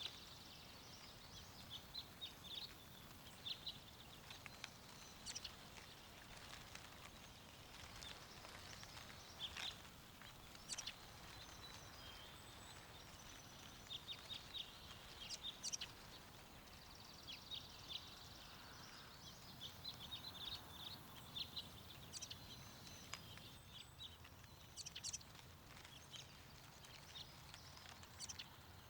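Small songbirds chirping and twittering in many short, quick calls over a faint low rush of wind.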